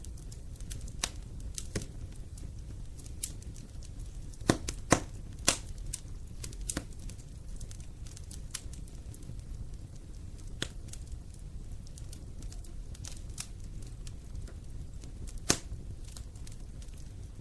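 Wood fire burning in a fireplace, crackling steadily with a low rumble, broken by irregular sharp pops, a quick cluster of the loudest about five seconds in and another single loud pop near the end.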